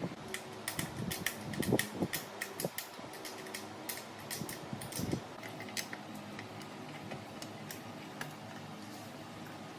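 A steady mechanical hum, with many sharp irregular clicks and taps over the first six seconds or so that then thin out.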